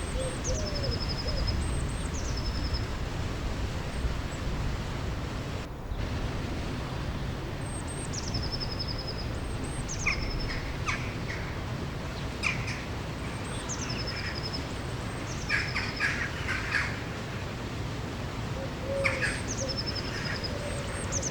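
Songbirds singing over a steady rush of flowing water. One bird repeats a short phrase every few seconds, a high note dropping into a rapid trill, while other birds add short bursts of lower chirps.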